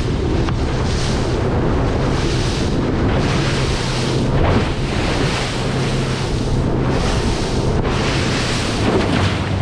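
Wind buffeting the microphone and choppy waves washing around a small aluminium boat, the hiss surging about once a second. A steady low engine hum runs underneath.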